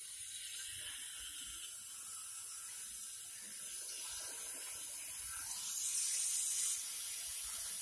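Water rushing through a just-opened supply valve into newly plumbed water-heater piping: a steady hiss that grows a little louder near the end.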